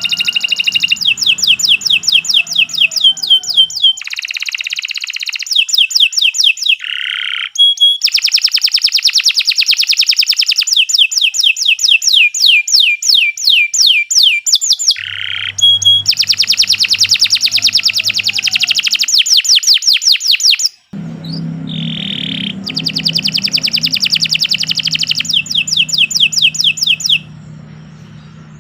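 Domestic canary singing long, rapid trills and rolls of fast repeated high notes, in runs of several seconds with short breaks. A low hum sits underneath in places, and the song stops shortly before the end.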